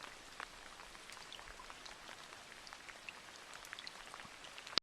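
Light rain falling: a faint steady hiss with scattered single drops ticking, and one sharper click just before the end.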